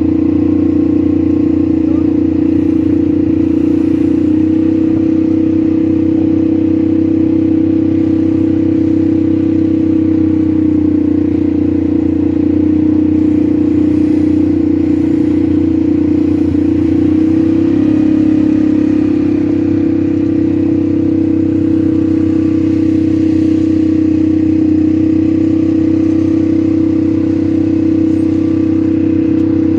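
ATV engine running steadily while under way, loud and even, with a brief shift in the engine note a little past halfway.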